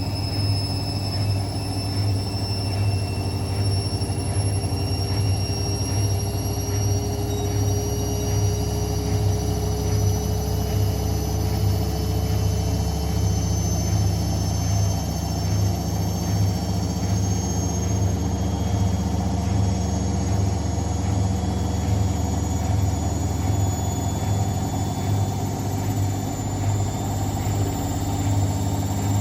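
Hotpoint WML540 washing machine spinning, with a steady low hum and a high motor whine that rises slowly in pitch as the drum speeds up.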